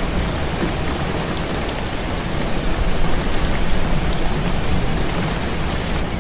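Heavy rain on a window: a dense, steady hiss with scattered sharp drop ticks over a low rumble, swelling a little in the middle.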